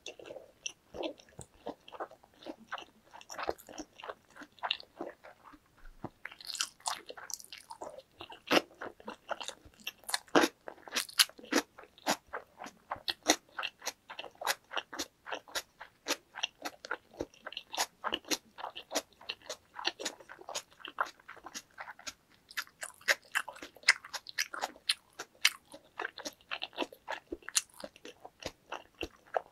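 Close-miked chewing of a mouthful of salmon sushi: a quick, continuous run of wet mouth clicks and smacks, several a second.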